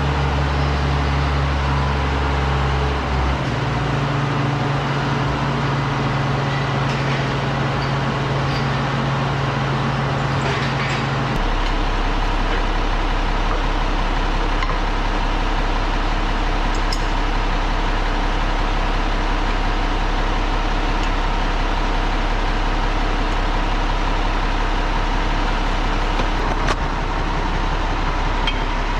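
Tractor engine running steadily, a loud, low hum whose pitch shifts abruptly about three seconds in and again about eleven seconds in.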